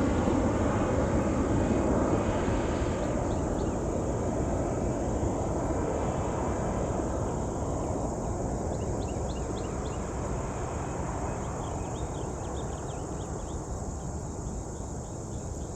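Jet airliner passing overhead, its engine roar slowly fading as it climbs away from the airport. From about halfway through, insects chirping can be heard under it.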